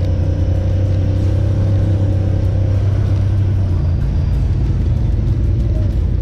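Honda Pioneer 1000 side-by-side's engine running at a steady speed, its note stepping up a little past halfway through.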